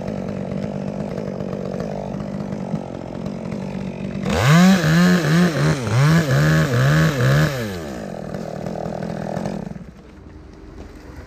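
Two-stroke chainsaw idling steadily, then revved hard for a few seconds with its pitch rising and falling again and again, then idling again before it stops near the end.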